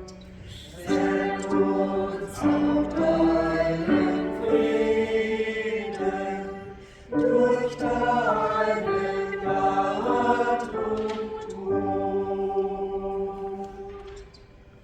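Church choir singing a slow piece in phrases, with a brief break about seven seconds in and the singing fading away near the end.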